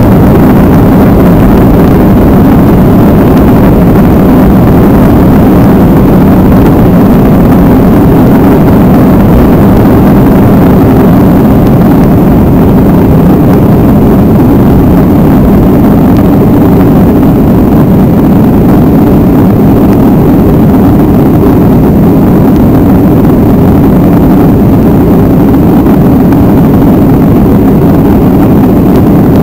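Boeing 737 jet engines heard from inside the cabin, running loud and steady at high power during takeoff.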